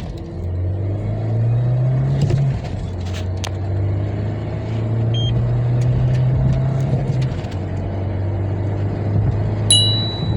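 Mahindra Scorpio-N's 2.0-litre turbo-petrol engine accelerating through the gears of its manual gearbox. The engine note rises for about two and a half seconds and drops at an upshift, then climbs more slowly and drops again at a second shift about seven seconds in, after which it runs steady.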